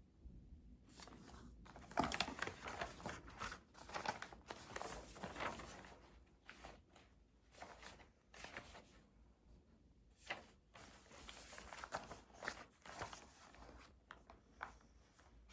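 Rustling and crinkling of something being handled, in a run of irregular scrapes and crackles that is busiest a couple of seconds in and thins out toward the end.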